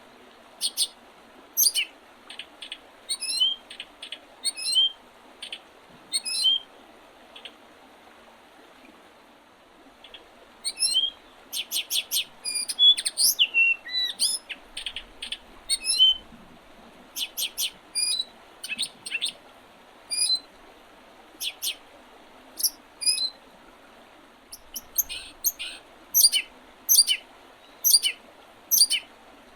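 Spring birdsong: small birds giving many short, high chirps and quick gliding notes in repeated runs, with a lull of a few seconds a third of the way in.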